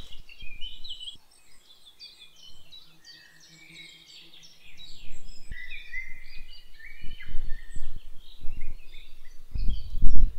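Small birds singing and chirping, many short overlapping notes and quick pitch glides, quieter for the first few seconds and fuller in the second half. A low rumble comes in near the end.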